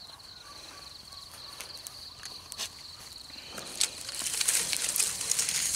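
An insect trilling steadily on one high pitch, with a fast, fine pulse. A few sharp clicks, then rustling and crackling that grows louder in the second half.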